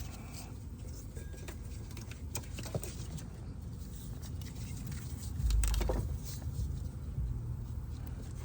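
Hands working in an engine bay while a serpentine belt is routed: scattered light clicks and rattles over a low rumble, with a heavier low thump about five and a half seconds in.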